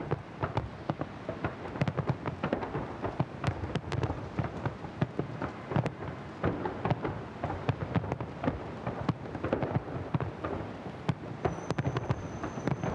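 Fireworks salute: a dense, continuous run of booming and crackling bursts, several bangs a second over a steady rumble.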